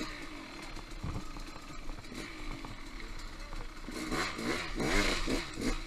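Off-road motorcycle engine running at low speed, then revved up and down in several quick rising-and-falling blips about four seconds in, the loudest part.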